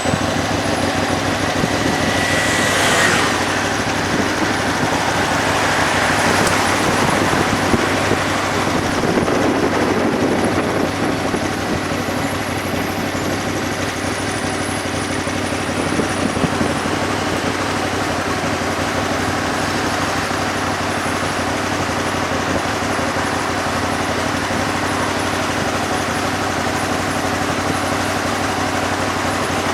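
An old motorbike's engine running steadily while riding through city traffic, with road and wind noise.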